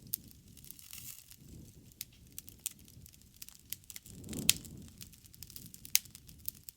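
Wood bonfire crackling: irregular sharp pops and snaps over a low rumble of burning, with a swell of flame and one loud pop about four and a half seconds in.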